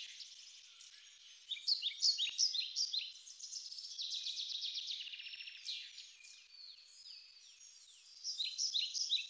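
A songbird singing in quick phrases of short chirps and descending notes, with a pause of about a second between phrases.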